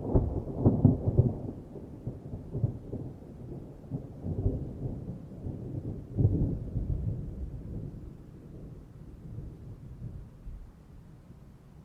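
Thunder rumbling in rolls: loudest at the start and again about six seconds in, then dying away.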